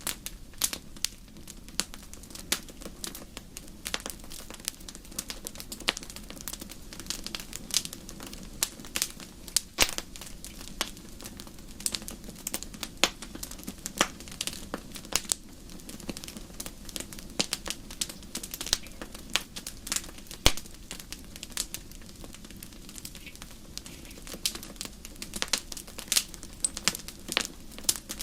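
Wood fire crackling: frequent irregular sharp pops and snaps over a steady low rush.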